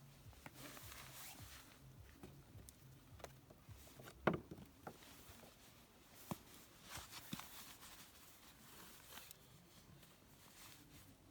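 Faint rustling and scattered light knocks of clothes and gear being handled while changing into ice skates, with one louder thump about four seconds in.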